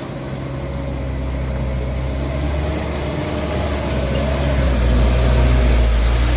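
Heavy diesel engine running steadily with a deep drone, growing louder over about the first five seconds.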